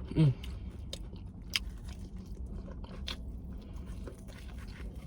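A person eating close to the microphone: chewing, with a few sharp mouth clicks and smacks. Just after the start comes a short low voiced sound that falls in pitch, the loudest moment.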